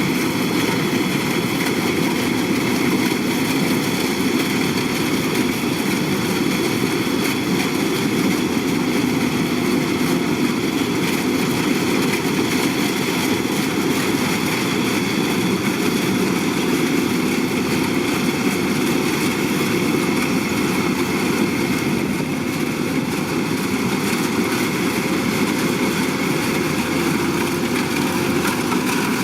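Kubota DC-105X combine harvester running steadily: a constant engine drone with a steady high whine above it.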